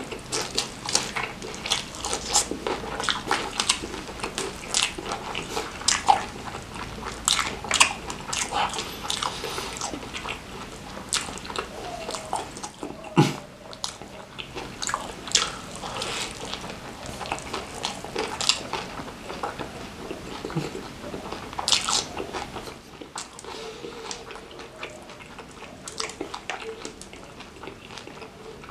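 A person biting and chewing crispy fried chicken topped with crushed bird's eye chilies, eaten with rice. Many short, irregular crunches and mouth clicks.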